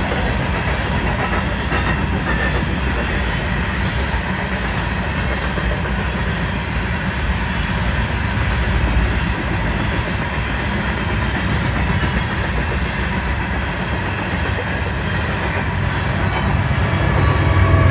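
Train rolling past on the rails: a steady rumble and clatter of cars on the track, with a deeper hum building near the end.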